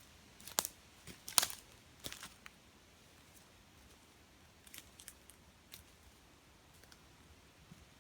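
Footsteps climbing a damp wooded slope: a few sharp crunches and snaps of twigs and leaf litter underfoot in the first couple of seconds, then fainter scattered ticks.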